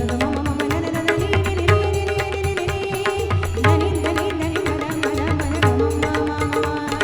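Music with tabla and pakhawaj drumming in a steady rhythm under a sustained melodic line.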